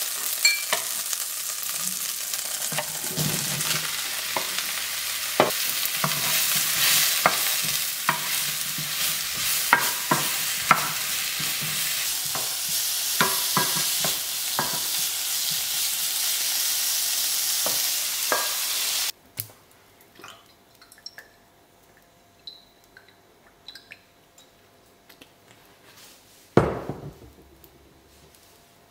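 Sliced mushrooms sizzling in oil in a nonstick wok while a wooden spatula stirs them, with frequent sharp scrapes and taps of the spatula on the pan. About two-thirds of the way through, the sizzling cuts off suddenly to near quiet with a few faint clicks, and a brief louder noise comes near the end.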